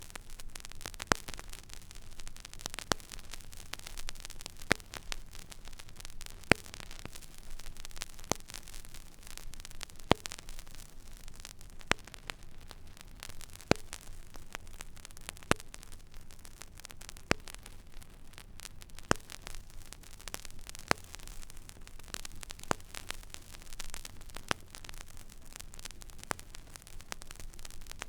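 Stylus riding an empty vinyl record groove: steady surface hiss and fine crackle over a low hum, with a sharp click repeating regularly about every two seconds.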